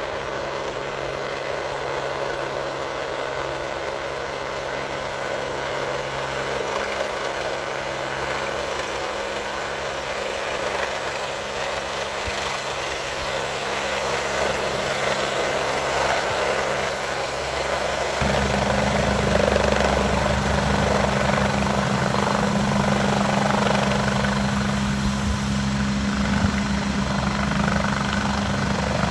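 Helicopter's rotor and engines running steadily, with fast rhythmic rotor chop, growing gradually louder and stepping up sharply about two-thirds of the way through as it draws closer.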